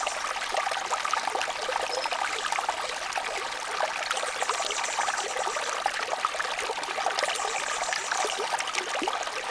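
A small brook babbling steadily over stones: a constant rush of running water flecked with quick little splashes and gurgles.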